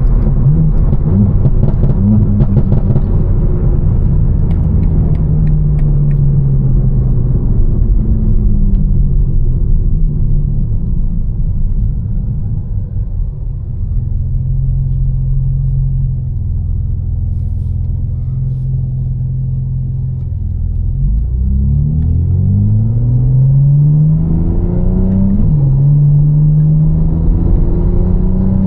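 Tuned BMW M4's twin-turbo straight-six, with catless downpipes and an Fi exhaust, cruising as the revs ease off, then running quieter at low steady revs. About two-thirds of the way in it accelerates hard: the revs climb, drop at an upshift, and climb again before another shift near the end.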